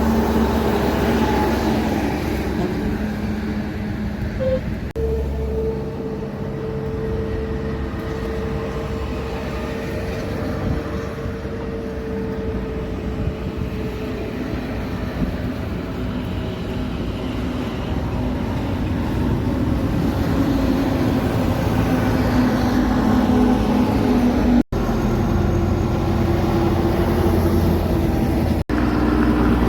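Heavy trucks driving by, with a steady low engine and road rumble and a held engine tone, broken by a few abrupt cuts between clips.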